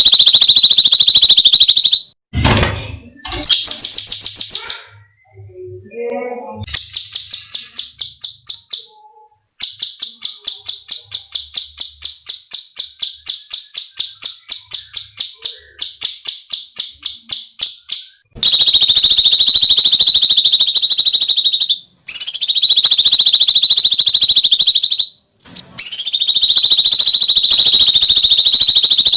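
Cucak cungkok giving loud, shrill, buzzing shrieks lasting a few seconds each. A run of rapid repeated notes at about four or five a second follows, from about seven seconds in, before three more long shrieks with short gaps between them.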